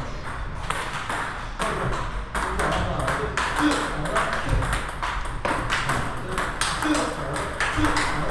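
Table tennis ball rally: the celluloid-type ball clicking off paddles and the table in a quick, steady rhythm of several hits a second during drive practice.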